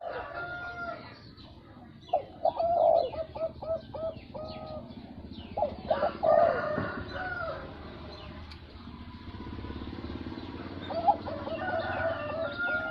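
Zebra dove cooing: three bursts of rapid, staccato coos, about two seconds in, around six seconds, and again near the end.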